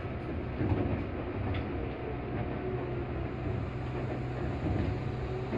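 Tobu 8000 series electric train running along the line, heard from inside the car: a steady rumble of wheels on rail with a low motor hum.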